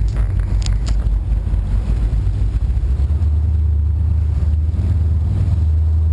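Powerboat engines rumbling with a deep, steady drone that settles about three seconds in; two brief clicks near the start.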